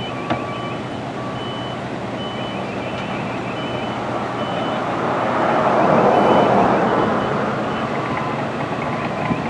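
Birds chirping in short, repeated high notes and quick trills over a steady rushing noise that swells about five seconds in and fades again.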